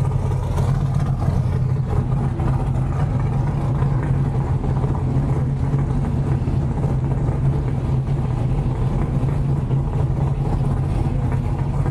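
Car engine running at a steady pitch, with no revving.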